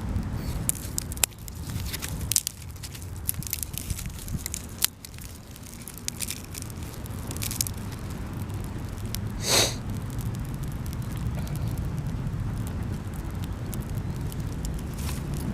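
Small wood fire crackling in a mini campfire stand: scattered sharp pops and snaps over a steady low rumble, with one brief, sharper pitched sound near the middle.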